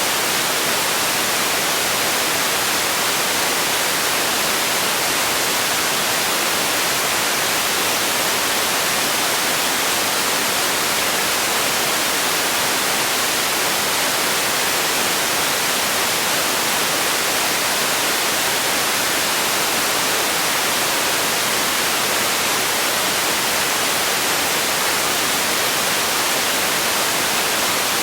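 Steady, unchanging hiss of relaxation noise, a bright static-like sound strongest in the treble, with no change in level.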